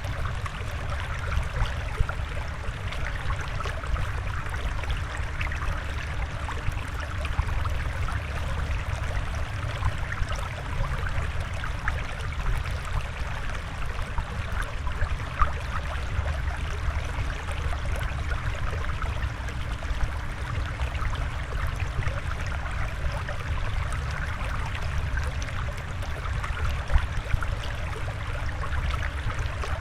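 Flowing, trickling water, steady throughout, with a low rumble underneath and many small crackling splashes.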